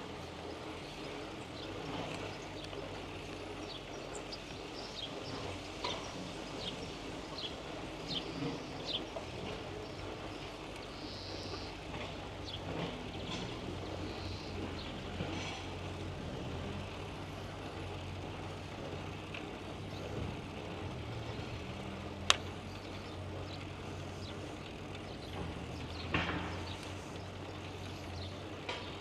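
Outdoor ambience on a bicycle ride: a motor vehicle's low steady hum, with short high ticks or chirps in the first half and one sharp click a little past the middle, the loudest sound.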